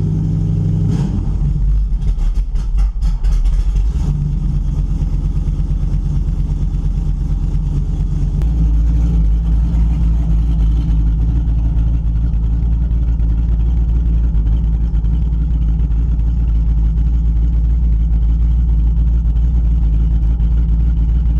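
Small-block Chevy V8 with headers and no mufflers, running just after a cold start after sitting for months. It runs unevenly for the first few seconds, then settles to a steady idle.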